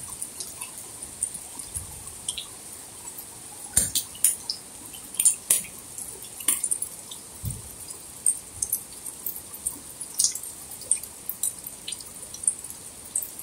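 Rain falling steadily, with irregular sharp drops ticking close by; a few louder drops come around four to seven seconds in.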